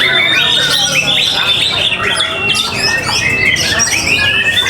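Several caged songbirds singing at once, a dense, continuous mix of loud chirps, trills and rising and falling whistled notes with no pauses.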